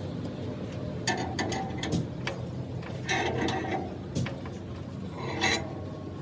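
Irregular metal clanks and knocks from work on a truck body, some ringing briefly, over a steady low hum.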